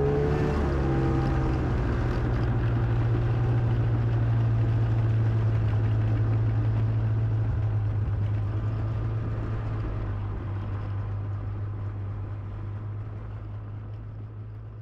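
An engine idling with a steady low hum, fading away over the last few seconds.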